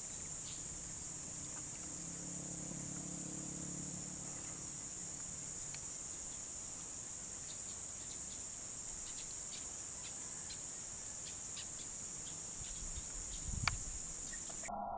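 Insects droning in a steady, high-pitched continuous buzz, with faint scattered ticks. A single sharp click sounds near the end, and the insect sound cuts off abruptly just before the end.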